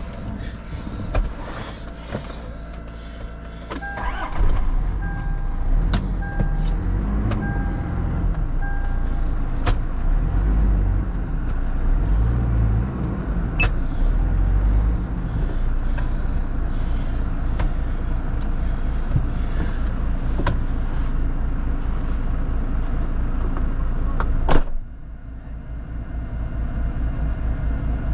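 4x4 engine pulling the vehicle forward slowly, its pitch rising and falling as it revs, with scattered knocks and rattles. A beep repeats about five times a few seconds in. A loud clunk comes near the end, and after it the engine runs on, muffled and more even.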